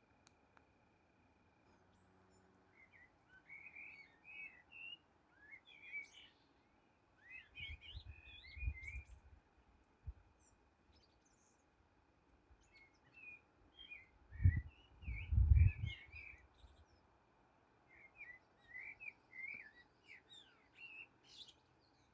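A songbird singing in bouts of quick, high twittering phrases, a few seconds apart. Twice, about eight and fifteen seconds in, a short low rumble rises over the song and is the loudest sound.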